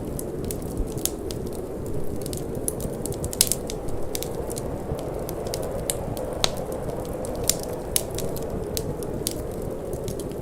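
Wood fire crackling in a fireplace: frequent sharp pops and snaps, a few louder ones, over a steady low rumble of flames and wind.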